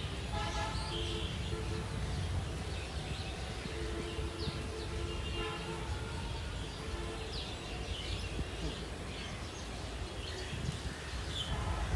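A steady low rumble with short horn-like tones sounding now and then, under scattered bird chirps.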